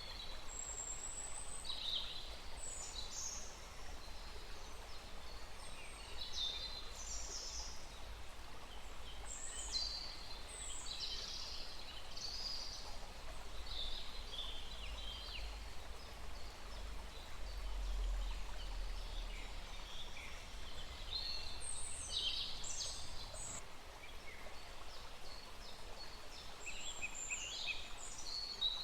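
Several small wild birds chirping and calling in a forest, short high-pitched notes and trills overlapping throughout, over a faint steady background hiss and a low rumble.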